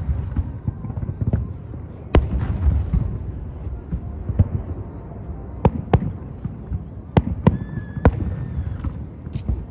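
Aerial firework shells bursting: sharp bangs with a booming low rumble after them, one big burst about two seconds in and a quicker run of bangs in the second half.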